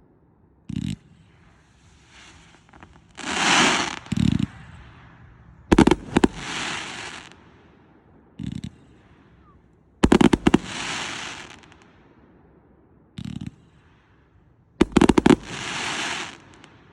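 200-shot consumer firework cake firing: dull launch thumps every few seconds, each round followed by sharp loud reports and a second or so of crackling.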